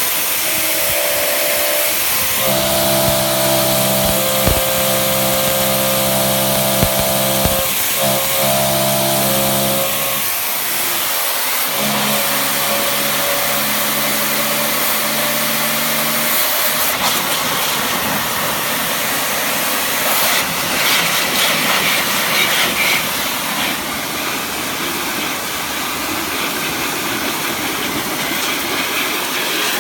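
High-pressure washer jet hitting the knobby tread of a spinning motocross-bike tyre: the tread pattern chops the spray into a pitched drone that sounds like a V8 engine revving. The tone holds steady, breaks off briefly around ten seconds in, comes back, then gives way to a plain hissing spray after about seventeen seconds.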